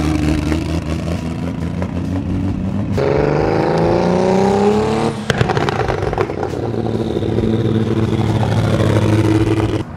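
Turbocharged BMW E46 M3 drift car's engine running, then rising in pitch as it accelerates for about two seconds. About halfway there is a sharp break with a few pops, after which it runs steadily until it cuts off suddenly near the end.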